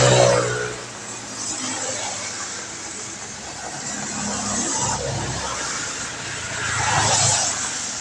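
Vehicles passing on a wet road, their tyres hissing through the water over a steady hiss of rain. One goes by right at the start with a falling engine note, and another swells up and passes about seven seconds in.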